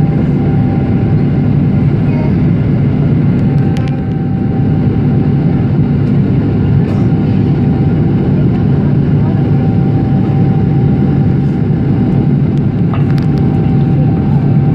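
Steady engine and airflow noise of a Boeing 777-300ER's GE90 turbofans heard inside the passenger cabin, a constant low hum with a faint high whine that comes and goes.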